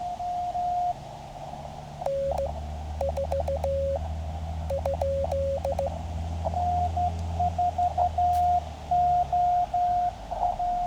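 Morse code from a QCX Mini CW transceiver: a single tone keyed in dots and dashes. A slightly lower-pitched signal sends in the middle, and the higher tone keys again near the end, as two stations trade a callsign exchange. A low steady rumble runs underneath for most of it.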